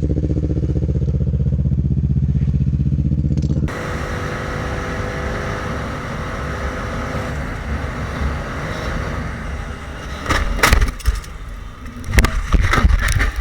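Motorcycle engine running steadily, heard from on the bike. About four seconds in, the sound switches abruptly to a quieter ride with engine and wind noise. From about ten seconds, a string of loud sudden crashing and scraping noises, a motorcycle crash.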